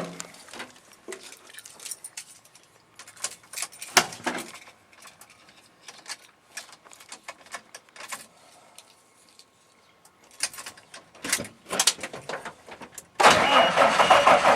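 A few scattered clicks and knocks, then near the end the Cummins 12-valve inline-six diesel of a 1995 Ford F-series truck suddenly starts and keeps running loud. It is a cold start in about 10-degree weather after the truck has sat for a month.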